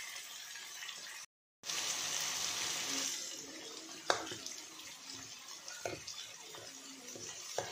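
Diced pumpkin sizzling and simmering in its own liquid in a kadhai: a steady hiss that cuts out briefly just over a second in. A spatula stirring the pieces knocks and scrapes against the pan a few times.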